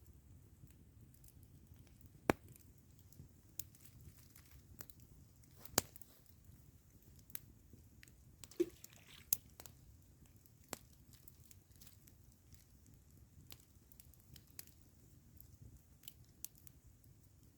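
Campfire of burning wood crackling, with irregular sharp pops and snaps, the loudest about two seconds in and a close pair around nine seconds.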